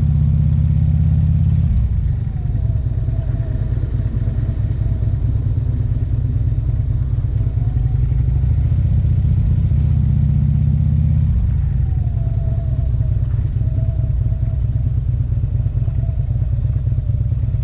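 Motorcycle engine running steadily during a slow ride, its low rumble changing character about two seconds in and again near eleven seconds.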